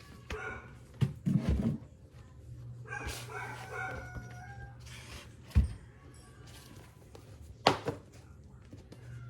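A dog barking a few times in short calls, with two sharp knocks and a steady low hum underneath.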